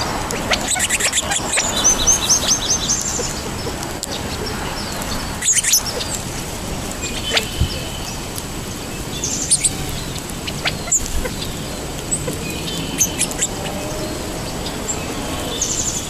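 Small wild birds chirping and calling: a quick run of high chirps in the first few seconds, then scattered single calls.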